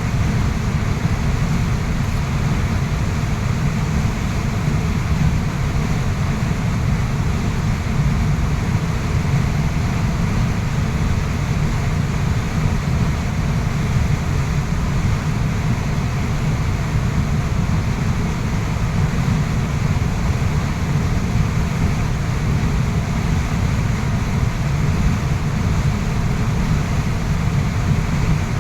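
Waterfall, its water rushing in a deep, steady, unbroken noise.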